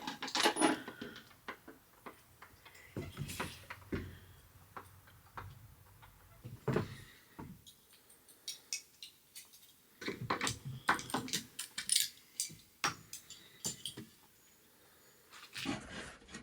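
Irregular clicks, clinks and knocks of metal door hardware and hand tools being handled during door fitting, coming in short clusters with brief pauses.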